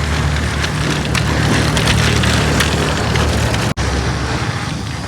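Small electric motor of a remote-control toy tractor running steadily, with a gritty crackle and a few clicks over it, broken by a brief dropout about three-quarters of the way through.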